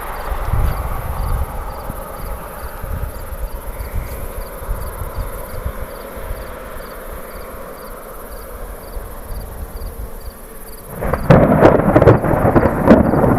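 Thunder from a passing thunderstorm: a low rumble that fades away, then a much louder crackling clap about eleven seconds in that rolls on as a heavy rumble.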